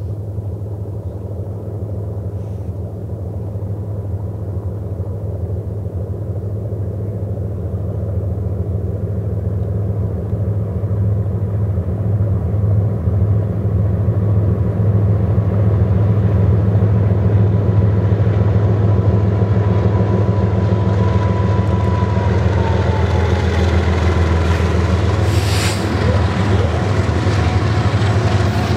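Several BNSF GE diesel locomotives leading a double-stack intermodal train, their engines droning and growing louder as they approach and pass. A high whine drops in pitch as the units go by, and wheels rolling on rail follow near the end.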